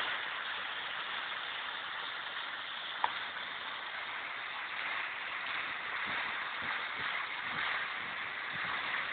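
Water of a small park waterfall cascading steadily, an even rushing hiss, with a single short click about three seconds in.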